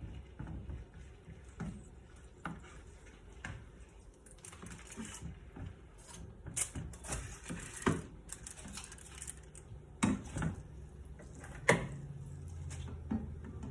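Irregular light clicking and tapping of kitchen utensils and dishes being handled, with a few sharper knocks about eight, ten and twelve seconds in.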